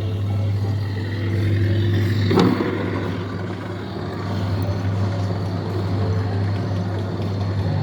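Coin-operated kiddie ride's electric motor running with a steady low hum, with a single knock about two and a half seconds in.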